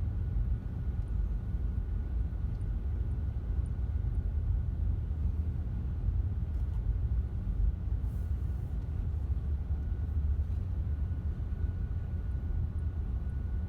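Steady low vehicle rumble, with a faint steady high hum over it.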